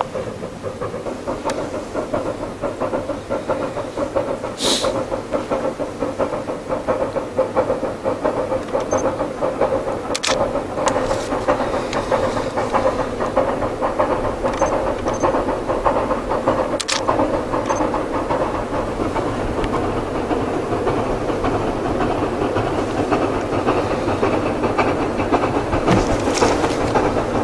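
Steam train running, a steady dense rush of hiss and clatter that grows gradually louder, with a few sharp clicks along the way.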